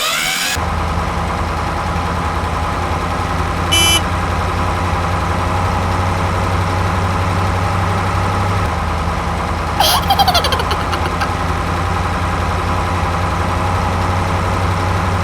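A vehicle engine running steadily at a low idle-like drone. A brief high beep cuts in at about four seconds, and a short sound with falling tones comes about ten seconds in.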